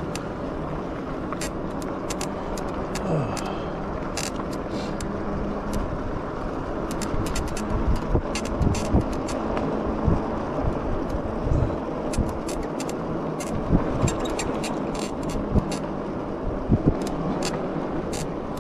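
Riding noise from a Cyrusher XF900 fat-tire e-bike on asphalt: a steady rushing of wind and tyre rumble, with frequent sharp clicks and rattles from the bike.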